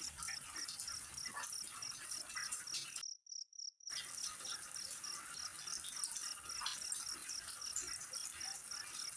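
Cricket chirping in even, high-pitched pulses about five a second over a faint hiss. The sound cuts out for under a second about three seconds in.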